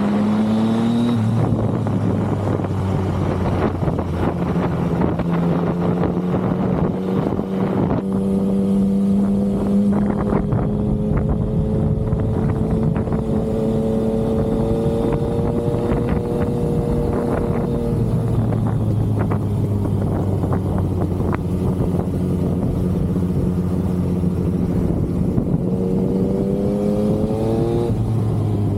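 Yamaha XSR900's inline-three engine under way on the road. Revs climb and fall with an upshift about a second in, hold at a steady cruise, drop about two-thirds through, then climb again and fall with another upshift near the end.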